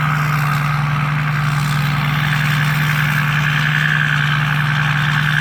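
Rice combine harvester's Hino J2 turbo diesel engine running steadily under harvesting load, a constant low drone with a high whine above it.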